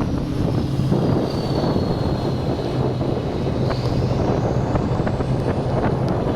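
Racing truck engines running, with a steady low drone and a high whine that falls slightly over a few seconds, under heavy wind buffeting on the microphone.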